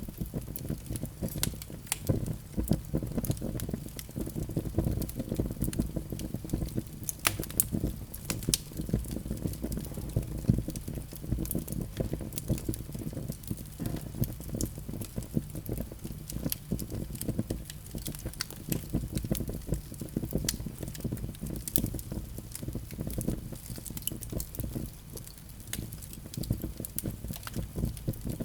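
Wood fire burning in a fireplace: a constant low rumble of flames with frequent, irregular sharp crackles and pops.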